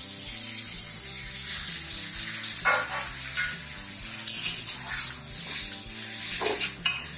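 Chopped tomatoes sizzling in hot oil with fried onions in a pressure cooker, stirred with a metal spatula that scrapes against the pot a few times.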